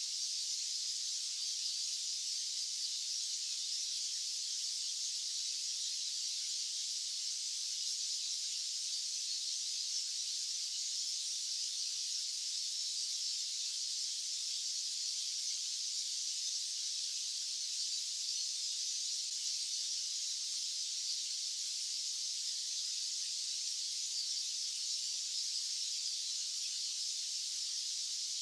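White noise track: a steady, unchanging high-pitched hiss with no low end.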